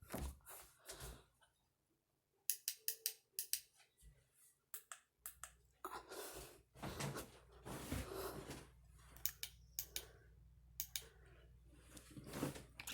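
A quick run of sharp clicks, then rustling handling noise and more scattered clicks; a low steady hum comes in about five seconds in.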